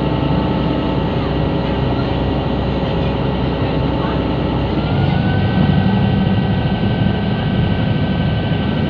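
River Class ferry's engines running steadily with a low rumble and a whine. About five seconds in, a tone rises and holds at a higher whine as the engine note changes.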